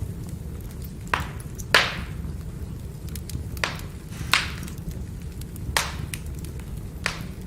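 Wood fire burning, with about six sharp crackling pops from the firewood over a steady low rumble of the flames.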